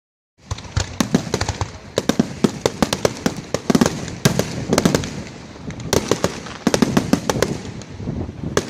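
Aerial fireworks going off in rapid, irregular succession: many sharp bangs and crackles, several a second, with heavier clusters now and then over a continuous low rumble.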